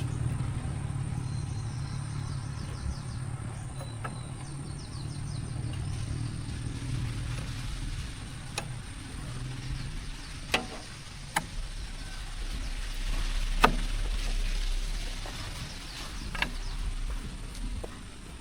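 A low engine rumble that fades away over the first several seconds, followed by about five sharp knocks at uneven intervals.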